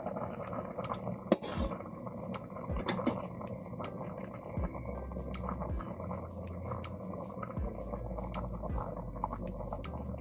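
Vegetable curry bubbling in a pot while a spoon stirs it, clinking against the pot now and then, with one sharp clink about a second in.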